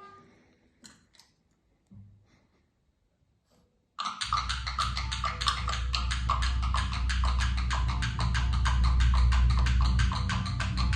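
Experimental electroacoustic music: a few faint scattered clicks and tones, then about four seconds in a sudden loud, fast, even ticking over a low steady drone with a few held tones.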